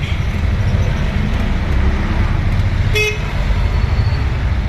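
Steady low rumble of road traffic and vehicle engines, with one short horn toot about three seconds in.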